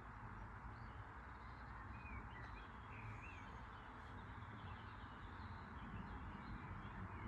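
Small birds chirping in short, scattered calls over a faint steady low rumble.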